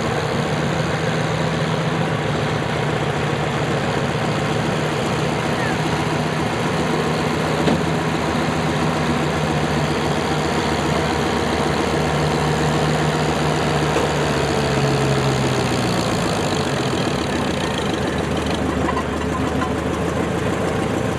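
Antique farm tractor engine running hard under load, pulling the weight-transfer sled down the track. About fifteen seconds in, the engine note drops as the pull ends.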